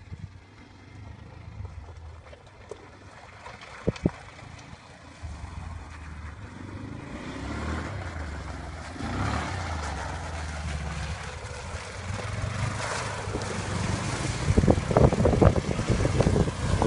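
Quad bike engine running off-road, growing steadily louder, with a couple of sharp knocks about four seconds in and heavier, uneven rumbling near the end.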